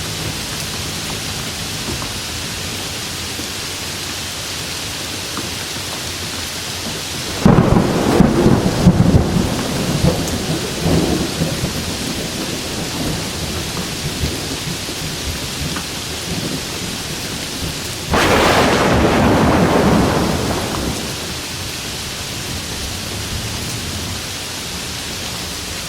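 Steady heavy rain with two claps of thunder. The first breaks suddenly about seven seconds in, crackling and rumbling away over a few seconds; the second comes about eighteen seconds in and rolls for about three seconds.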